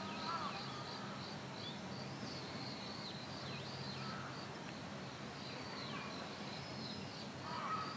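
Outdoor ambience with small birds calling: high chirps and several short descending notes, over steady background noise and a low hum.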